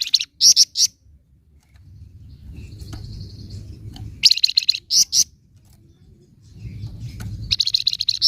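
Flamboyan bird giving harsh, rapid 'nyecret' chattering calls in three bursts, each ending in a few louder separate notes, with a short thin whistle between them. A low rumble runs in the pauses.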